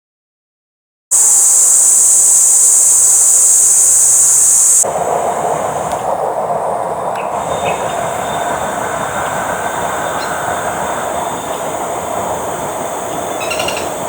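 After a second of silence, a loud steady high-pitched hiss runs for about four seconds, then cuts to the steady running noise of a train, with a faint steady whine over it.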